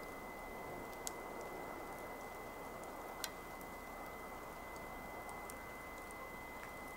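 Campfire burning with a steady soft hiss and scattered sharp crackles, two of them louder pops about a second in and about three seconds in.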